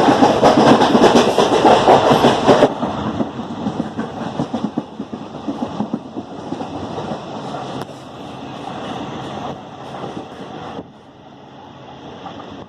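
Moving passenger train heard from inside a coach: loud running noise and wheel clatter on the rails. It drops suddenly about two and a half seconds in, then fades, with another drop near the end.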